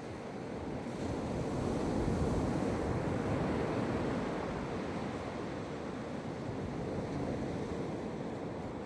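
Atlantic Ocean surf breaking on a sandy beach: a wave builds about a second in, peaks, and then washes out slowly.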